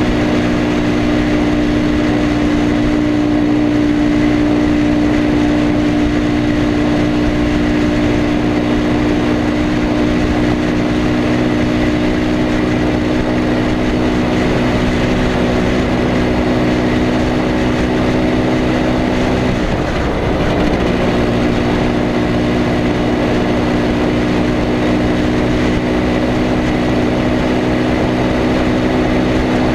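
IZh Planeta Sport 350 motorcycle's freshly rebuilt single-cylinder two-stroke engine running steadily while being ridden, with a brief dip in the engine note about two-thirds of the way through.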